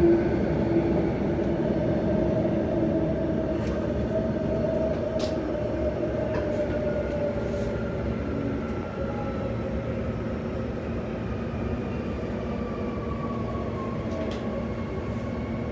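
Bombardier B-series electric train riding in a tunnel, heard from inside the car: a steady rumble of wheels on rail under the whine of the traction motors. The whine slides slowly down in pitch, a sign of the train slowing for the next station. A few faint clicks come through.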